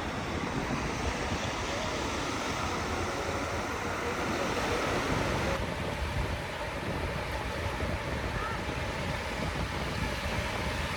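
Ocean surf washing onto a beach, with wind rumbling on the microphone. The hiss thins a little about halfway through.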